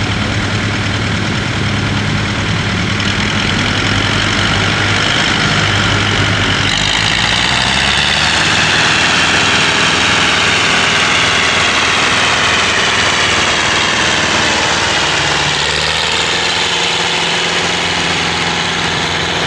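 Tractor engine running loud and steady, with a high whine that comes in about seven seconds in and slowly falls in pitch.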